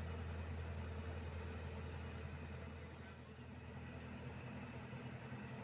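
Heavy road-paving machinery's diesel engine running steadily, easing slightly about three seconds in.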